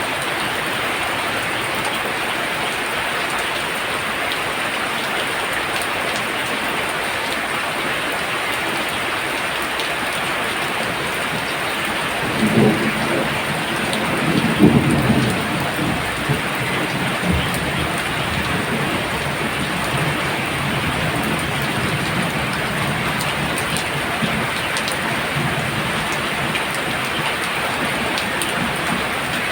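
Heavy rain pouring steadily, with a low rumble of thunder roughly midway through.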